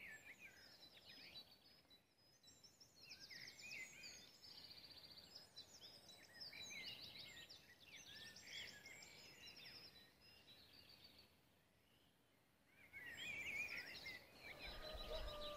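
Faint songbirds chirping and trilling, many quick high calls overlapping, broken by a short silence about two-thirds of the way through.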